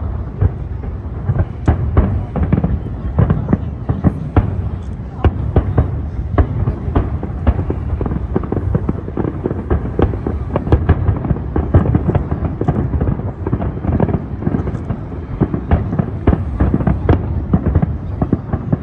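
Aerial fireworks display: a dense, continuous barrage of shell bursts, many sharp bangs in quick succession over a steady low rumble.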